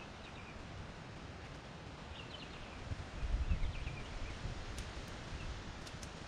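Faint outdoor ambience with small birds chirping briefly several times, and a low rumble for about a second, some three seconds in.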